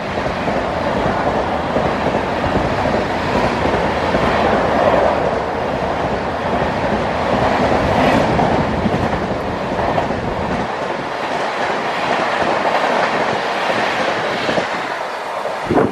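LHB passenger coaches passing at speed close by: a steady rush of wheels on rail with clickety-clack over the joints. The deep rumble falls away about two-thirds of the way through as the tail of the train goes by.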